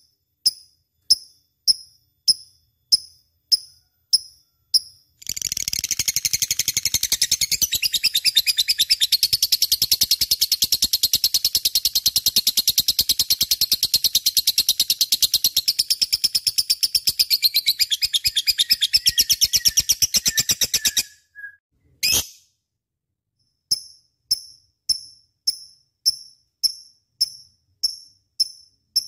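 Lovebird calling: short, sharp, high chirps at an even pace of about one and a half a second, then from about five seconds in a long, fast, unbroken chattering trill of some fifteen seconds, the drawn-out 'ngekek' prized in a gacor lovebird. After one brief call and a moment's pause, the regular chirps start again.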